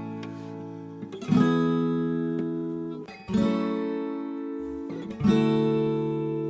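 Background music: acoustic guitar chords strummed slowly, a new chord about every two seconds, each left to ring out.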